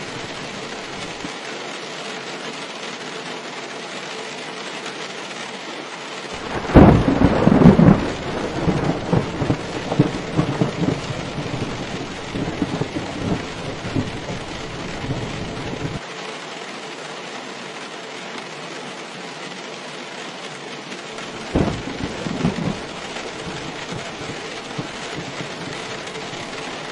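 Steady heavy rain with thunder. A loud thunderclap comes about seven seconds in and rumbles on for several seconds, and a smaller clap follows about two-thirds of the way through.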